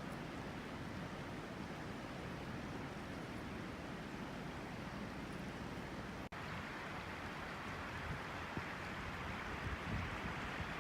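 A river flowing: a steady rush of water. About six seconds in the sound briefly drops out and comes back brighter, and a few soft knocks come near the end.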